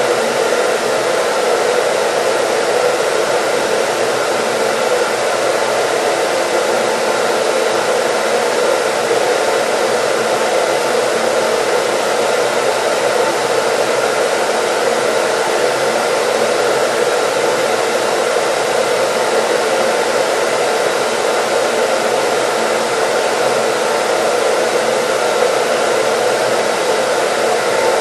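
Hair dryer running steadily, a constant even whooshing of fan and airflow with a faint motor hum, loop-style white noise with no change.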